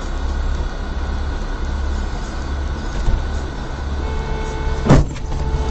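Car running on the road, a steady low rumble, as a dashcam records it. About four seconds in a steady pitched tone starts, and about a second later comes one sudden loud bang.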